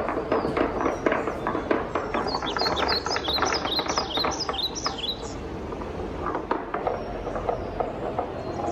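Wooden balls rolling and clacking along a wooden marble-run track in a dense stream of small knocks. About two seconds in, a bird gives a rapid string of short, high, falling chirps lasting about three seconds.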